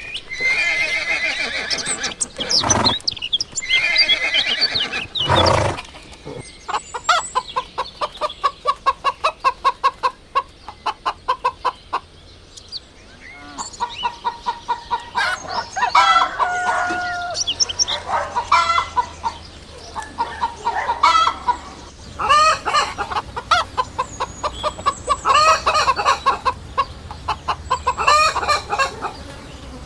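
Chickens clucking and cackling: a couple of longer drawn-out calls at first, then fast runs of short clucks, several a second, with louder cackles breaking in.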